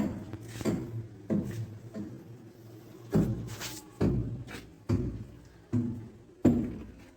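Repeated heavy knocks, roughly one a second and a little uneven in spacing, each with a short low ringing tail.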